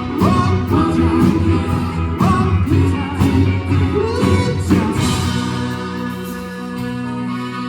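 Live pop-rock band with group vocal harmonies singing over it. About five seconds in the voices drop out and the band plays on with sustained chords, a little quieter.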